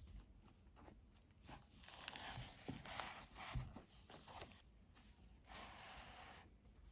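Faint rustling and scraping of things being handled, with a few light ticks in the middle and another short rustle near the end.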